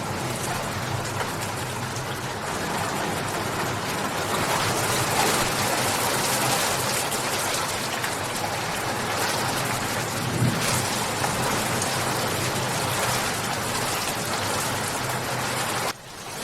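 Steady rain pouring down in a dense, even hiss. Near the end the sound briefly drops away and then swells back in.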